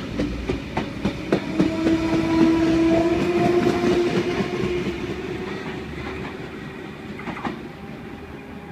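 V set electric intercity train pulling away from the platform: wheels clicking over rail joints, with a steady whine that swells about two seconds in and then fades as the train draws away.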